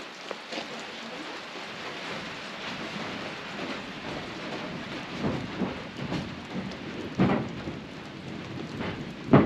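Steady rain hiss, with several dull thumps in the second half and the loudest one at the very end. The thumps are footsteps on the wooden plank floor inside the hollow fuselage of a derelict Douglas C-47.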